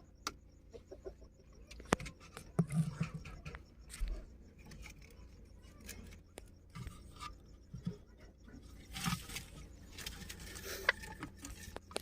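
Caged ring-necked parakeets making small sounds: scattered sharp clicks and scratches with a few short, soft calls.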